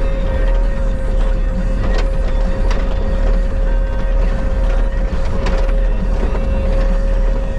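Bobcat skid steer running, a steady engine rumble with a constant high whine on top and a few sharp knocks.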